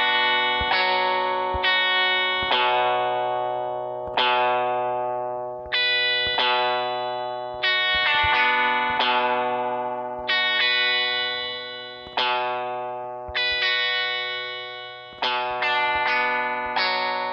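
Guitar-like music played through effects: single plucked notes and chords struck about once a second, sometimes several in quick succession, each ringing out and slowly fading over a steady low hum.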